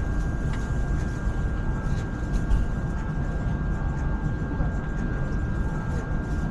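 Steady low rumble of a KTM ETS electric train running on the track, heard from inside the carriage, with a constant high whine over it.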